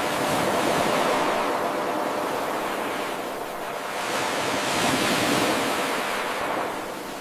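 Ocean surf washing in, an even hiss that swells and eases twice.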